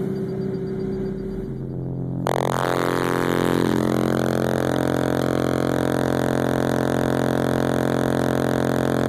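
Car-audio SPL burp: two DC XL subwoofers on a 3.5K amplifier play a steady 44 Hz tone in a Mustang, heard as a loud droning buzz. It builds for about two seconds, then jumps suddenly to full level and holds. The run breaks 150 dB.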